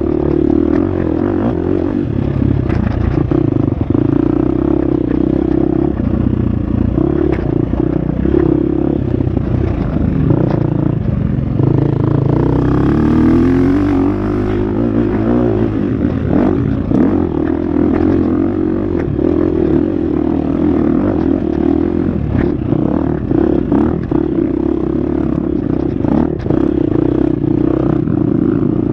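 Husqvarna FX 350 dirt bike's four-stroke single-cylinder engine running hard on a trail, its pitch rising and falling with the throttle, with a run of rising pitch about halfway through. Clatter and knocks from the bike over rough ground.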